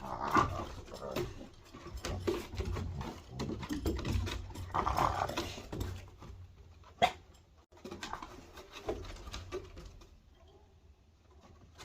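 A pet coyote and dogs vocalizing in several bouts, with a sharp click about seven seconds in.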